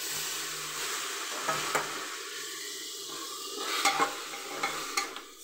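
Spices frying in oil in a pressure cooker sizzle as washed rice is tipped in, then a spatula stirs and scrapes the rice into the masala, with a few sharp clicks against the pot near the end.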